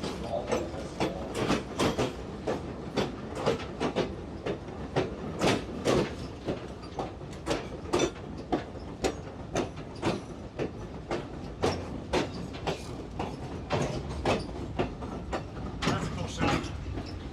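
Passenger train car riding over jointed track, its steel wheels clicking over rail joints several times a second over a steady low rumble.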